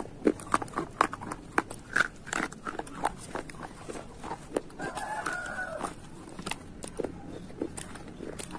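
Close-up crunching and chewing of a slate bar: a quick run of sharp bites and crunches in the first few seconds, then slower, scattered crunches. About five seconds in, a rooster crows briefly in the background.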